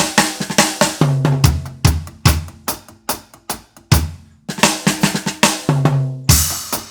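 Drum kit played in a reggae style: quick runs of snare and tom strikes with deep bass-drum thumps and a cymbal crash near the end. It demonstrates the common beginner's mistake of coming out of a fill with a bass drum on beat 1 instead of the one-drop feel.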